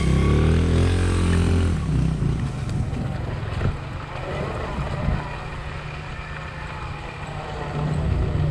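Dirt bike engine idling, with a strong, steady engine note for about the first two seconds. It then drops to a rougher, quieter idle and picks up again near the end.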